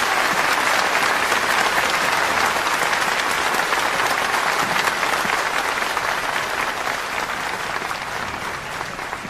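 Crowd applauding: dense, even clapping that slowly fades toward the end.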